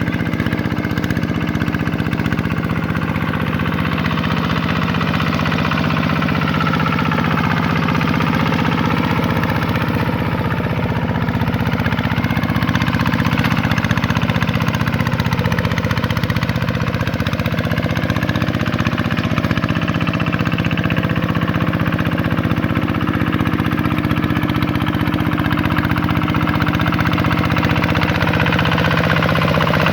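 Vikyno RV125-2 hand tractor's single-cylinder diesel engine running steadily, a little louder from about halfway through.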